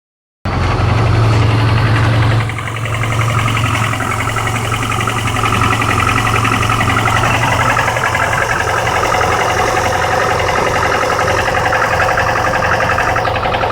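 VAZ 1.5-litre eight-valve four-cylinder petrol engine running steadily, with a strong low hum. The sound changes slightly and drops a little in level about two and a half seconds in.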